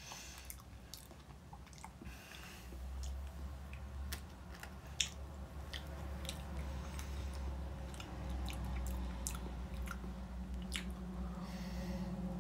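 A person chewing a mouthful of soft chocolate-coated strawberry Swiss roll, with many small wet mouth clicks and smacks, over a low rumble that comes in about two seconds in; near the end he takes another bite.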